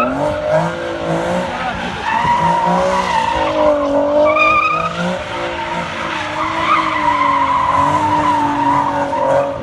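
Car tires squealing in a long skid as the car is pushed hard, the squeal wavering up and down in pitch over the engine running at high revs; it dies down just before the end.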